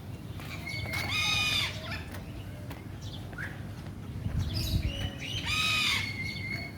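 Two loud, harsh bird squawks about four seconds apart, each lasting about half a second, over fainter bird chirping.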